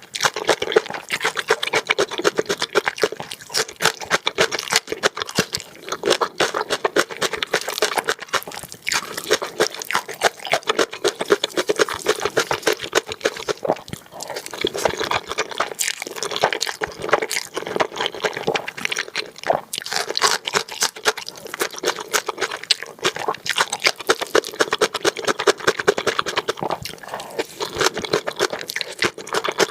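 Close-miked eating: spicy black bean noodles and kimchi being chewed and slurped, a steady stream of quick wet clicks and crunches.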